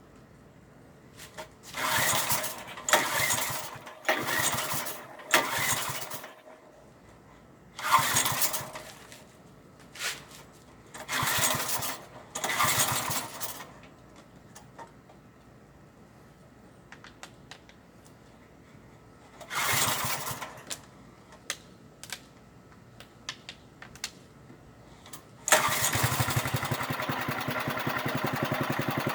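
1995 Briggs & Stratton small engine being cranked cold after seven years unused: about nine short, loud starting attempts with pauses between them, then it catches near the end and keeps running steadily.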